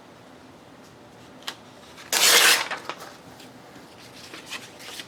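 Paper handled on a craft table: a tap, then one loud half-second rasp of paper, followed by light rustling and small clicks.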